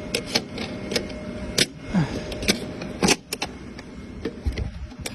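Repeated sharp metallic clicks and knocks from hands-on work on a Boeing 777 engine cowl and its latches, over a steady hum that stops near the end.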